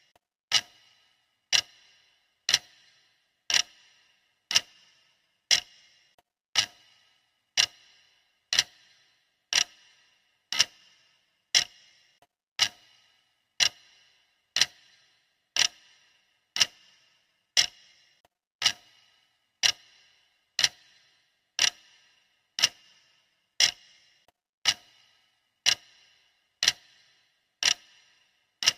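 Clock ticking, one sharp tick a second at an even beat, each with a short ringing tail: the steady tick of a countdown timer.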